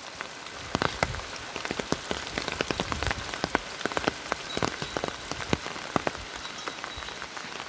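Steady rain falling, with many separate drops striking close by at irregular intervals.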